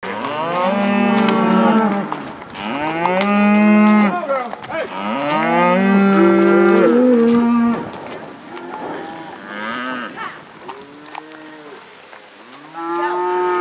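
A herd of cattle mooing, many overlapping calls from several animals at once. The calls are loud at first, fall quieter for a few seconds in the middle, then come loud again near the end.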